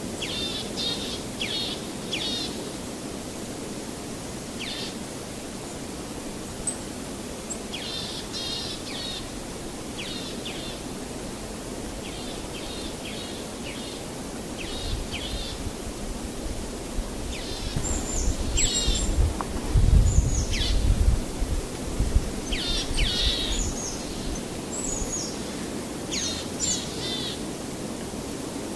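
Small birds chirping in short repeated calls over a steady background hiss, with a low rumble growing in the middle stretch and peaking about two-thirds of the way through.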